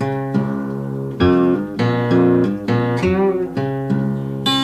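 Solo Delta blues guitar playing between vocal lines: a repeated low bass note under picked upper notes, some of them bent.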